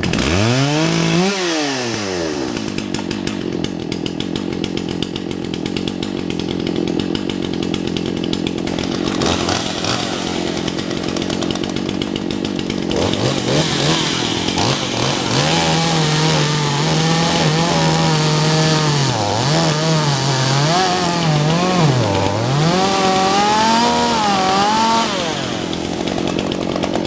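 Two-stroke chainsaw running loud, with a quick rev right as it comes in. From about halfway on, its engine pitch rises and falls again and again as the throttle is worked.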